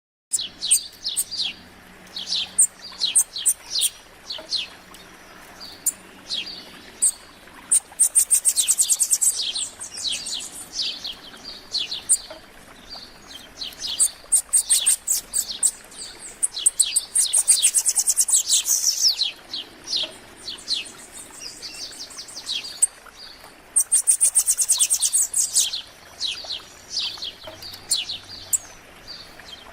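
Several wild songbirds singing together at dawn: a steady stream of short, high chirps, broken four times by a very high rapid trill about a second and a half long.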